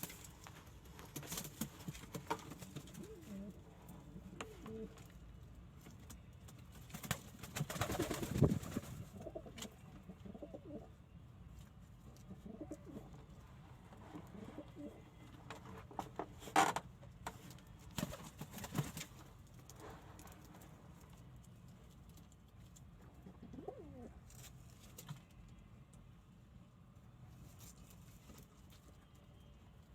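Domestic pigeons cooing in low, repeated calls, with a few brief louder rustles or knocks, the strongest about eight seconds in.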